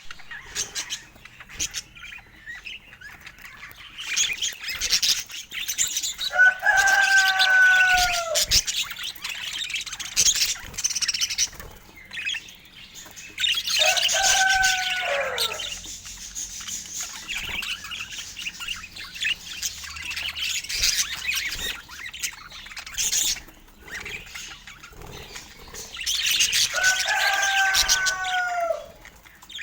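Pet budgerigars chirping and warbling in a rapid, busy stream of high notes. Three times a longer, lower call cuts through, each one falling in pitch at its end.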